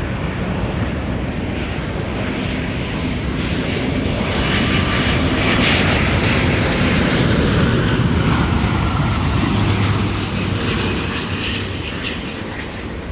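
Jet noise from a landing Airbus A350 with Rolls-Royce Trent XWB turbofans, swelling to its loudest about halfway through and then easing off as the aircraft passes.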